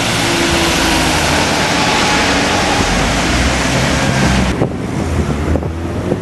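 A large vehicle's engine running under a steady rush of noise, with wind on the microphone; the rush eases a little about four and a half seconds in.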